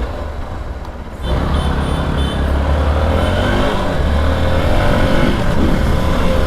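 Motorcycle engine and road noise as the bike moves off, the rumble rising sharply about a second in and staying loud while riding.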